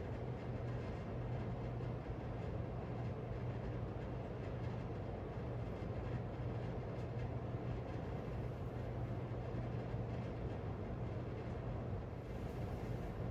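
1994 Casablanca Lady Delta ceiling fan running steadily on high speed: a constant rush of air over a steady low motor hum.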